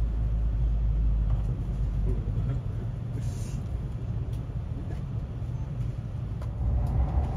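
Low rumble heard inside a Nishi Kyushu Shinkansen passenger car, louder in the first two seconds and again near the end, with a brief hiss about three seconds in.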